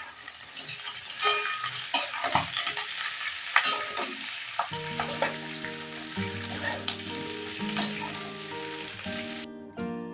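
Cabbage and capsicum sizzling in hot oil in a pan, with the spatula clacking and scraping as the vegetables are stirred. Background music comes in about halfway through.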